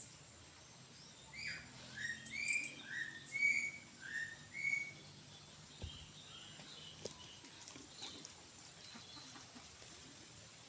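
A bird calling a run of about eight short chirped notes, alternating higher and lower, over the first five seconds, against a steady high-pitched whine.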